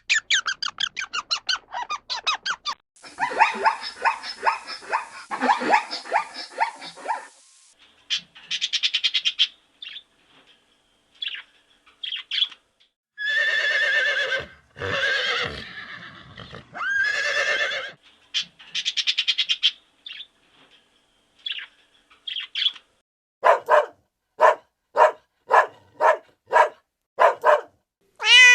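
A string of separate animal calls from several animals, led by a dog barking. Near the end comes a run of about nine short, evenly spaced barks, roughly two a second.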